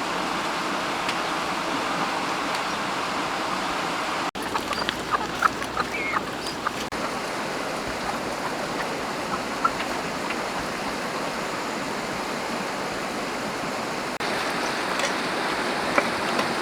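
Water of a forest stream rushing steadily, with a few brief sharp sounds about five to seven seconds in and again near the end.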